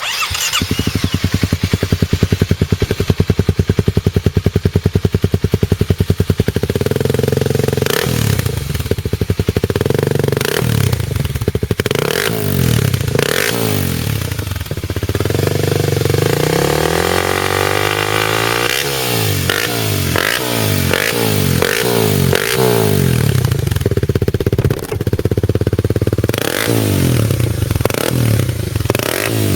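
An engine running: an even, rapid beat for about the first six seconds, then revving up and down again and again.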